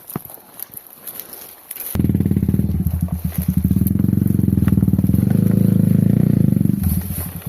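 An off-road motorcycle engine comes in abruptly about two seconds in and runs at a steady low idle with a pulsing beat, then cuts off abruptly near the end. A few faint clicks come before it.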